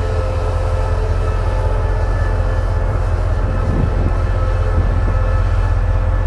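Diesel train engine running steadily at the station, a loud low rumble with a few faint held tones over it.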